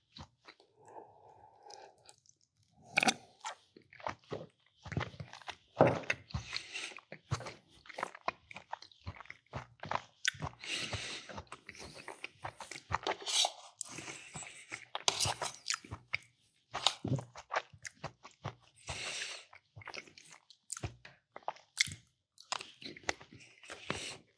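A person chewing and crunching food in irregular bites. The food is a meatball sub with mac and cheese.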